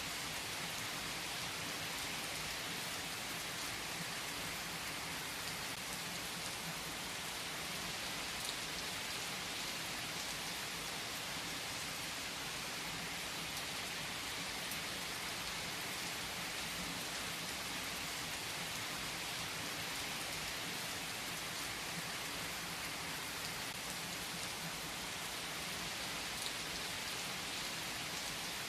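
Steady rain falling: an even hiss with a few single drop ticks standing out now and then.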